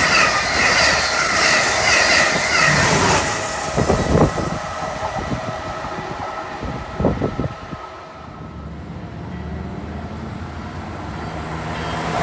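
Amtrak Acela Express trainset passing at speed: a loud rush of wheels on rail with high wavering squeals for the first few seconds, then fading away as the train recedes, with a few low thumps along the way. Near the end the sound of another approaching train starts to build.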